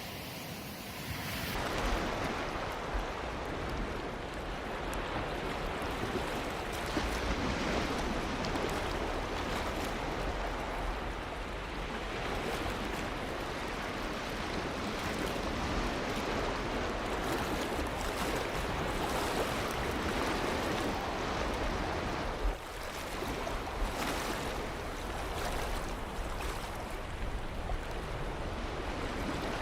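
Ocean surf: waves breaking and washing in a continuous rushing hiss. The sound swells about a second and a half in and dips briefly about three quarters of the way through.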